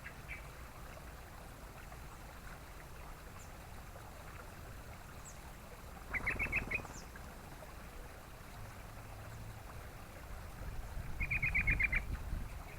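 Yellow-vented bulbul calling in short bursts of rapid, bubbly chattering notes, twice: once around the middle and once near the end, over a steady background hiss.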